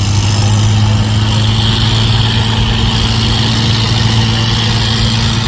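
Large diesel tractor engine running at a steady speed, a loud, even drone with no revving.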